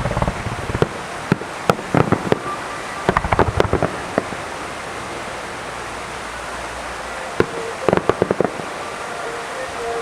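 Aerial fireworks bursting in irregular clusters of sharp bangs, with a quick run of them a few seconds in and another near the end, over a steady background hiss.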